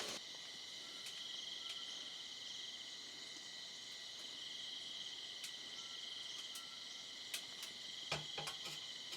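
Insects trilling steadily in a high, pulsing chorus that swells and fades in phrases, over a fainter steady tone. A few sharp clicks and light knocks come near the end.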